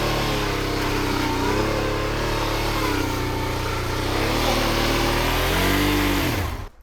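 Big adventure motorcycle engine revving up and down, its pitch rising and falling repeatedly. The sound cuts off abruptly near the end.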